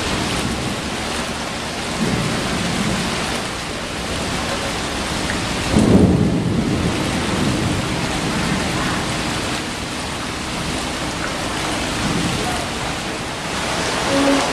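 Heavy rain falling steadily, with a few low rumbles swelling through it, the loudest about six seconds in.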